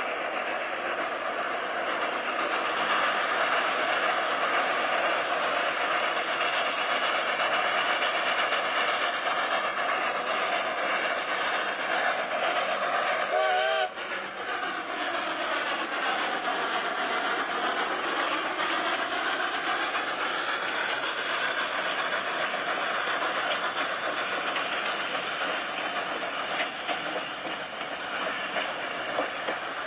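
Nevada Northern Railway train rolling along the track: a steady, continuous noise of wheels on rails, with a brief wavering squeal a little under halfway through.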